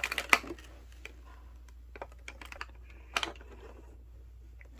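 A few light clicks and taps, a quick cluster at the start and single taps about two and three seconds in: handling the small ink bottle and its cardboard advent-calendar packaging.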